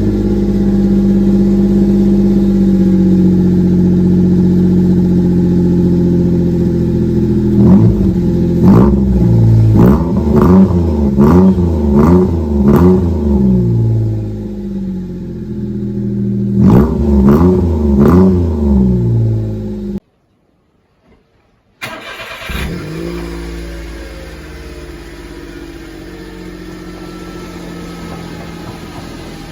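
Mitsubishi Minicab H42V kei van's three-cylinder engine heard at the exhaust: idling, then blipped to a quick rise and fall in pitch about a dozen times in two bursts. After a brief cut it idles again, more quietly, on another of the mufflers being compared.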